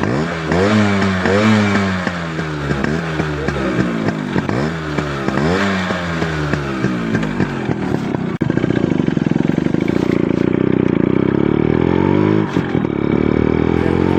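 Yamaha RX135's single-cylinder two-stroke engine revved in a quick series of throttle blips, each rising and falling. About eight seconds in it settles into steady, even running.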